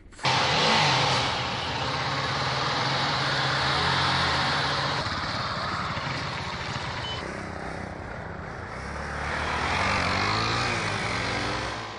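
Dirt bike engine running under way, with heavy wind rush over the microphone. The engine level eases off for a couple of seconds past the middle and builds again about ten seconds in.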